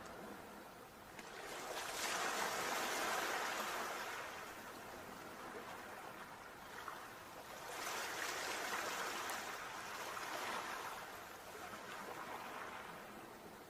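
Sea waves washing in and drawing back: two surges of surf, one about two seconds in and one about eight seconds in, each swelling and then fading, with another building at the end.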